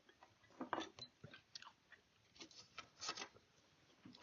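Faint hand work on small metal rifle parts: a scattering of short, light scrapes and clicks as a part is handled and worked with a small file.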